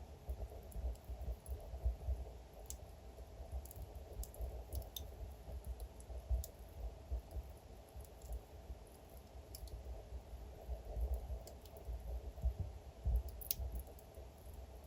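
Wood fire crackling: scattered sharp pops and snaps at irregular intervals, the loudest about thirteen and a half seconds in, over a low steady rumble of burning.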